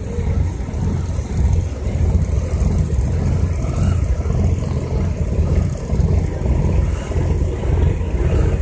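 Truck engines idling: a steady low rumble.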